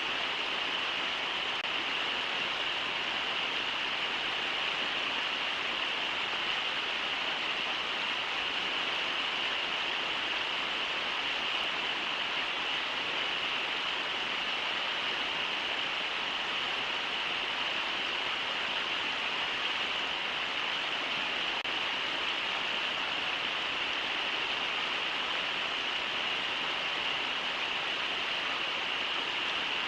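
Steady rush of river water running over shallow rapids, an even hiss strongest in the upper middle range, with no breaks.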